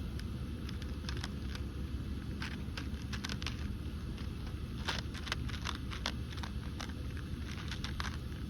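A cat chewing food: irregular short clicks in small clusters over a steady low rumble.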